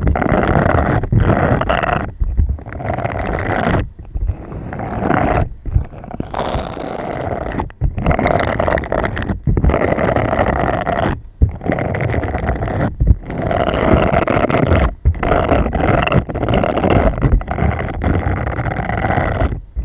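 Loud ASMR scratching and rubbing in repeated rough strokes, each lasting a second or two, with brief pauses between them.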